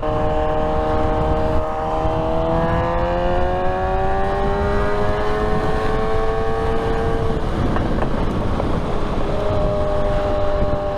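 Motorcycle engine pulling in gear, its pitch rising slowly for about seven seconds and then dropping away, under heavy wind noise on the rider's microphone. A steady engine tone comes back near the end.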